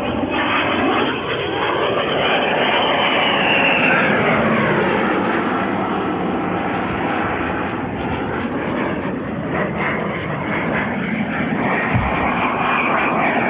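Electric ducted-fan RC jet with a 120 mm 12-blade rotor running at high power on a speed run: a loud fan whine that rises and falls in pitch as the jet passes, sweeping down after about four seconds and climbing again near the end.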